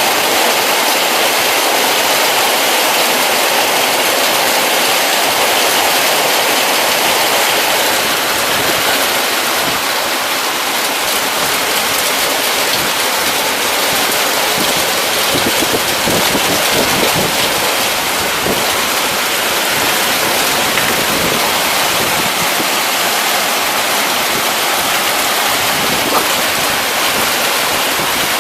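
Heavy rain pouring down steadily: a dense, even hiss of downpour with no let-up.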